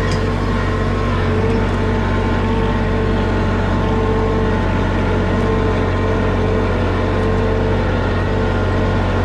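Tractor diesel engine running steadily at an even speed, loud and close.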